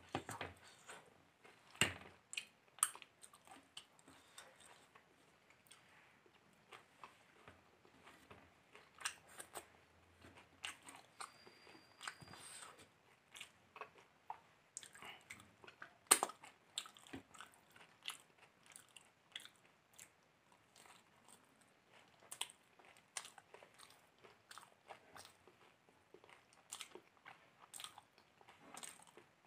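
Close-miked eating by hand: chewing and wet mouth sounds with irregular sharp clicks and small crunches, the loudest about 16 seconds in.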